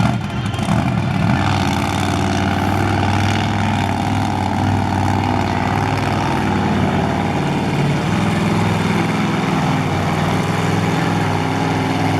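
Monster truck engine running steadily at a low, even speed, without revving.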